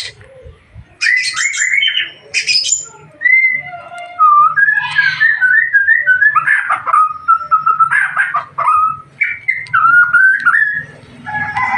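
White-rumped shama singing: a quick run of sharp, rapidly repeated notes, then a long string of clear, varied whistled phrases, with a short pause near the end.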